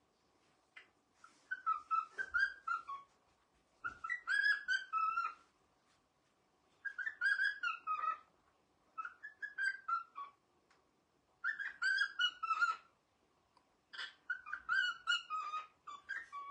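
Pet cockatiel singing and chattering in short bursts of quick warbled, whistly chirps, about seven phrases, each roughly a second long.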